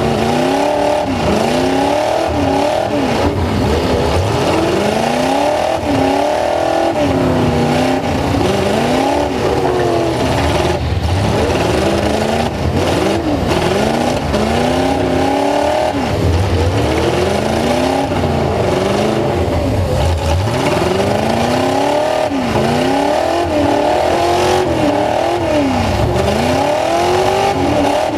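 Full-size truck engine revved hard over and over, its pitch climbing and dropping every second or two.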